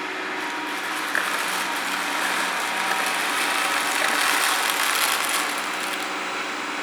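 Haier robot vacuum cleaner running, a steady whir from its suction motor and brushes, swelling slightly about four seconds in.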